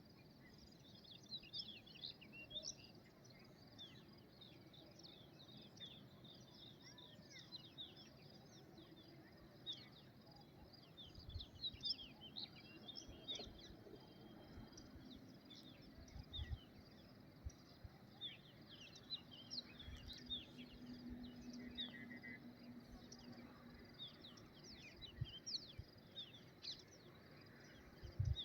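Many small birds chirping, their short, quick calls overlapping throughout, faint. A faint low hum comes in for a few seconds past the middle, and there are a few soft low knocks.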